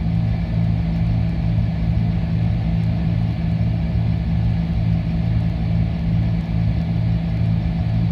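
Cessna 310's twin piston engines and propellers droning steadily in the cabin in flight, with a throbbing beat about twice a second, the beat typical of the two engines turning at slightly different speeds.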